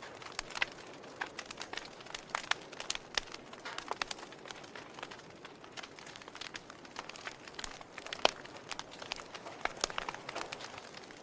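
Fire crackling: irregular sharp pops and snaps over a soft steady hiss, with one louder pop about eight seconds in.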